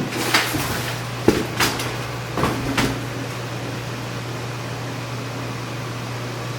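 A heater fan running with a steady hum and rush of air, with several sharp knocks and clatters in the first three seconds.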